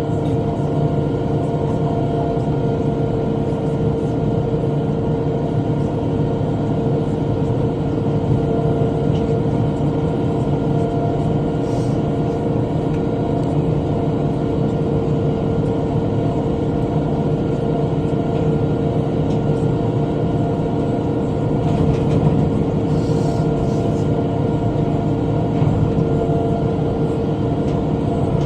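Tractor pulling a rotary cutter (bush hog), engine and cutter running steadily under load while mowing, a constant drone with a steady whine.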